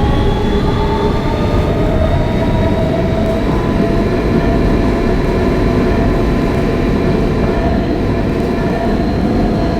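R160B subway car with Siemens AC propulsion running between stations, heard from inside the car: a steady loud rumble of wheels on rail with the even whine of its traction motors.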